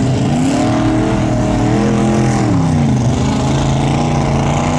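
Mud truck engine revving: the pitch climbs over the first two seconds, drops back around three seconds in, then holds a steady lower run.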